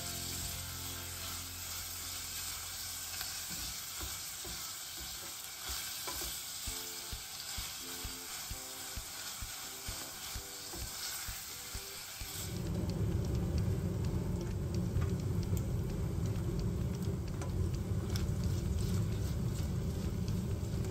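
Food sizzling as it fries in a pan, with stirring. About twelve seconds in, the sizzle gives way to a louder, lower rushing sound.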